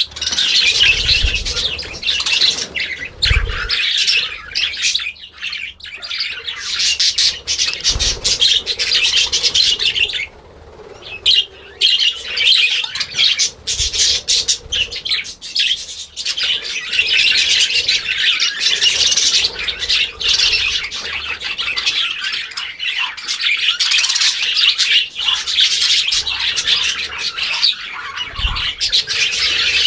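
A flock of small Australian parrots chattering and squawking continuously, with a few short low thumps.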